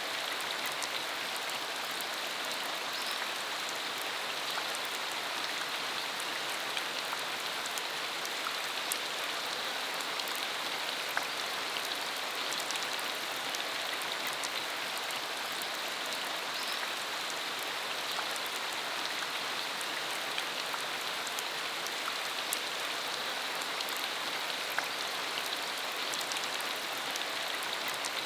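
Steady rain falling on a dirt country road: an even hiss made of many small drop ticks, with a few louder single drops here and there.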